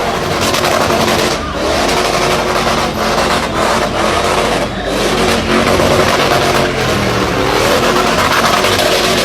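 Car engine running hard at high revs during a drift, its pitch rising and falling, with brief dips in level about a second and a half and about five seconds in.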